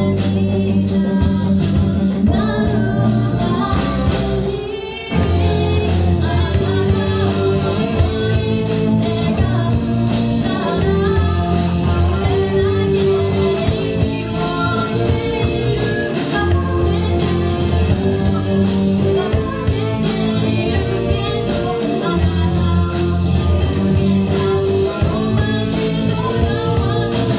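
Live rock band playing a song with singing over electric guitar, bass and drums. The band drops out briefly about five seconds in, then comes back in full.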